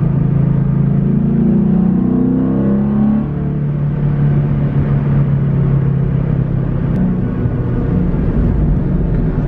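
Ford Mustang GT's 5.0 Coyote V8, fitted with a Steeda cold air intake, heard from inside the cabin while driving; it is super loud. The engine pitch climbs under acceleration for about three seconds, then drops and settles into a steady drone.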